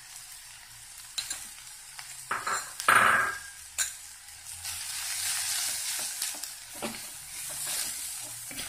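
Sliced shallots and green chillies sizzling in hot coconut oil in a clay pot, with a wooden spatula knocking and scraping against the pot. A louder clatter comes about three seconds in, when turmeric powder goes in. After that the stirring and sizzling grow louder.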